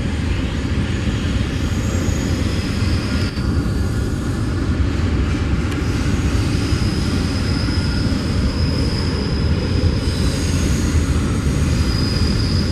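Freight train cars rolling past on the rails: a loud, steady rumble of wheels on track, with faint high squeals coming and going.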